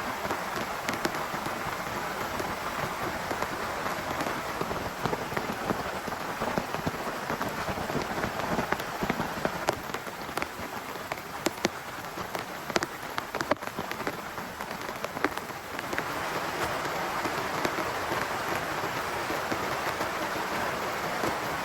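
Heavy rain falling on a tent: a steady hiss of rain with many single drops ticking sharply on the fabric. It eases a little in the middle, the separate drop hits standing out more, then comes on fuller again.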